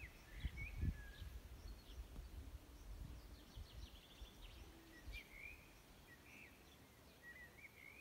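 Birds chirping and whistling in short calls, with a quick run of notes about three and a half seconds in. Low rumbles sound in the first second.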